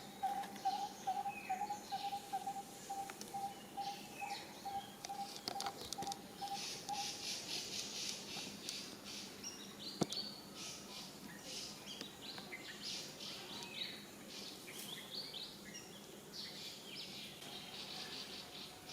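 Birds chirping and calling, with many short high notes throughout. A low note repeats steadily about four times a second for the first seven seconds, and a single sharp click comes about ten seconds in.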